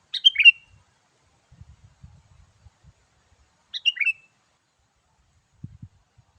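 Sooty-headed bulbul giving two short, bubbly calls, each a quick run of a few falling notes, about three and a half seconds apart. Faint low knocks sound in between and near the end.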